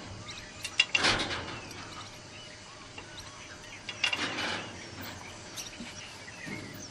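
Outdoor ambience with birds chirping, broken by two short noisy surges, about a second in and again around four seconds.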